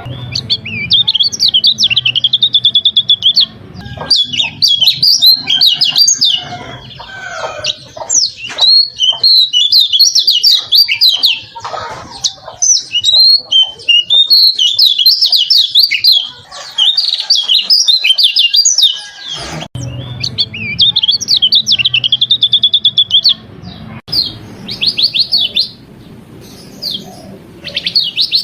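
A kecial kuning (white-eye) singing a long, varied song of rapid high trills and chirping warbles in near-continuous phrases, with a brief break about two-thirds of the way through. Its repertoire includes canary-like phrases it has learned.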